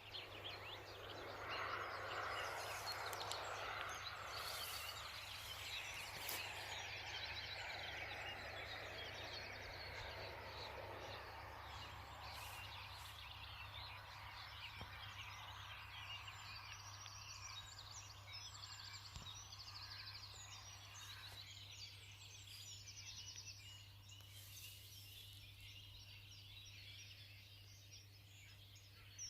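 Birds chirping and calling over a broad outdoor hiss, which is strongest for the first ten seconds or so and then thins out, with a steady low hum underneath.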